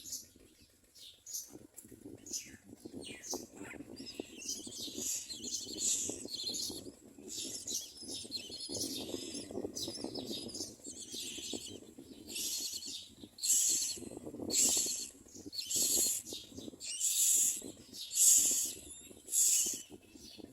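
Common myna nestlings giving harsh, raspy begging calls, dense at first and then in loud separate bursts about once a second. A stretch of low rustling runs under the calls midway.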